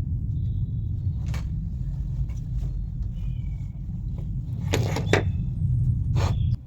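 Steady low rumble with a few sharp knocks, three of them close together about five seconds in, and birds chirping faintly.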